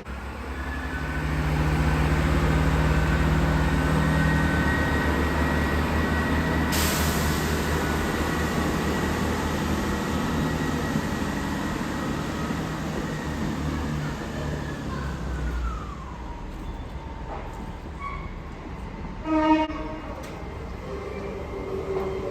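A train running through a station with a heavy low rumble and a high whine that slides down in pitch about fifteen seconds in. A short, loud horn blast sounds near the end.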